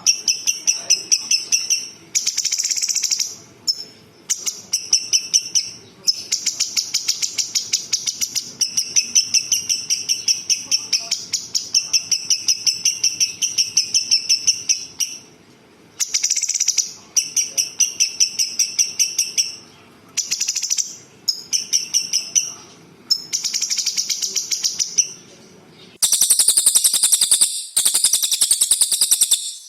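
Small songbird singing fast, rattling trills in phrases of one to three seconds with short pauses between them. Near the end a higher, harsher trill takes over.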